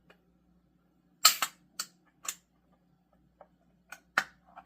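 Sharp metallic clicks and taps from a beer can being handled and worked open, about seven at irregular intervals, with the loudest pair about a second in.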